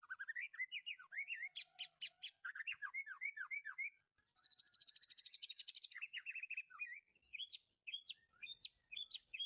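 A small songbird chirping in rapid runs of short, sliding notes. A fast, high trill comes about four seconds in, and more scattered chirps follow toward the end.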